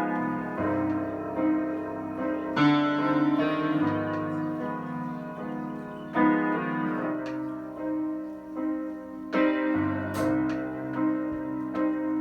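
Piano playing a slow instrumental passage of sustained chords, a new chord struck every few seconds, ahead of the song's vocals.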